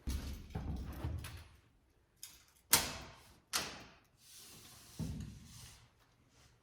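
Knocking and clattering from hands-on construction work: a low, rumbling clatter at first, then three separate sharp knocks, the loudest about three seconds in.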